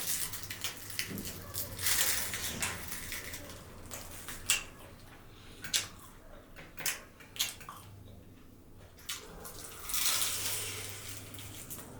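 Close-miked eating sounds: chewing and biting food, with scattered sharp clicks and crackles and two longer crunchy, rustling stretches.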